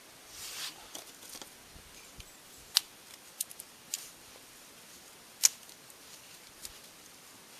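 Freshly lit kindling fire crackling: irregular sharp pops and snaps of burning split wood, two of them much louder than the rest, over a soft hiss.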